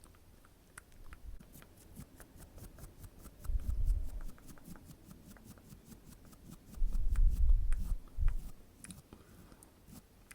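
A rapid, even run of light crisp clicks, about six a second, made close to the microphone, as in ASMR tapping or snipping. Twice it is joined by a low muffled rumble, the loudest sound here, of the kind made by handling near the microphone.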